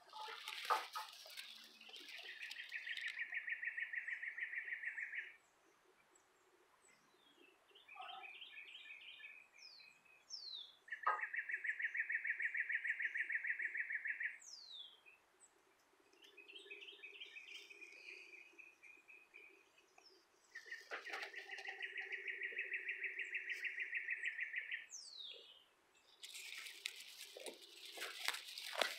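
A bird sings a repeated dry, rapid trill three times, each about three seconds long, with shorter trills and high, quickly falling whistle notes in between. Hay rustles and crackles close by in the first second or so and again near the end.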